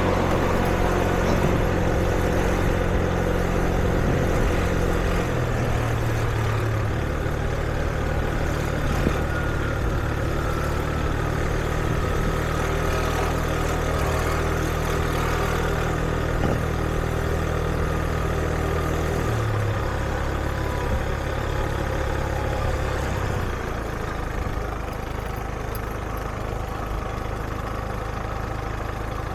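Street traffic with motor vehicles idling close by: a steady low engine hum that shifts in pitch a few times as engines change or move off, over a general hum of traffic.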